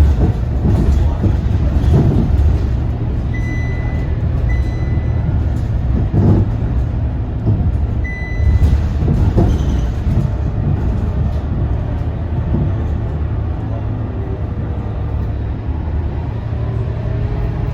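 Cabin sound of a Scania K230UB city bus in service: its five-cylinder diesel runs with a steady low hum while the body knocks and rattles over the road. Three short electronic beeps sound, about a third of the way in and again near the middle.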